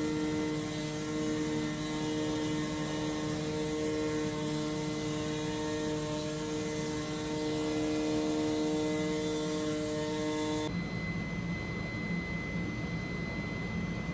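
Comagrav DIGI CORSA CNC flatbed cutter running: a steady machine hum with several whining tones over a hiss. About ten seconds in the sound changes abruptly to a rougher low hum with a single high whine.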